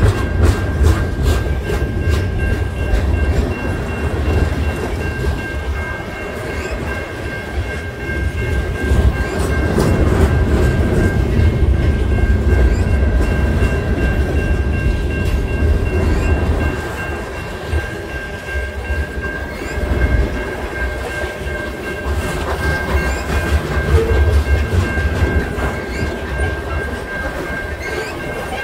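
Canadian National freight train rolling past: a heavy low rumble of the cars, with clicking of wheels over rail joints, strongest at the start, and steady high tones held throughout.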